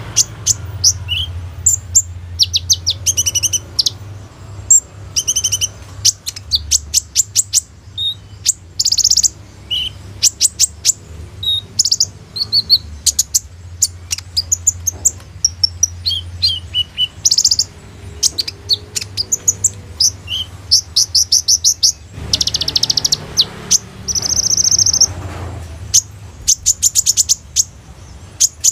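A kolibri ninja (sunbird) singing, with rapid high trills and sharp chirps in quick succession and a longer unbroken run of song about two-thirds of the way through. A steady low hum runs underneath.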